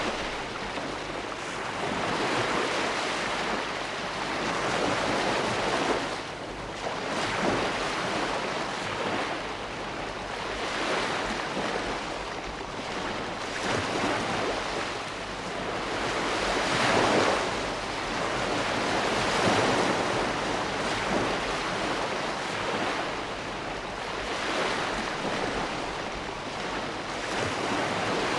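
Ocean waves breaking and washing on the shore, a steady rush of surf that swells and ebbs every few seconds, with some wind.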